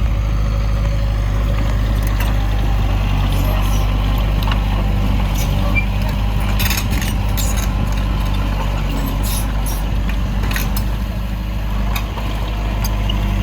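Heavy diesel machinery engine running steadily, with several sharp metallic clanks.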